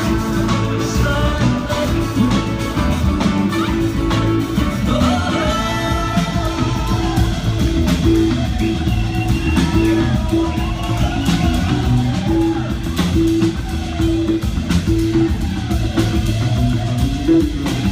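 A string band playing live with drum kit: wavering melodic lines, plucked strings and a steady, repeating bass line.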